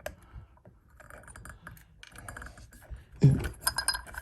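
Small metal parts clinking and scraping as the ceiling fan is worked onto its mounting bracket and screws are readied, with scattered light clicks and a louder clatter of clinks about three seconds in.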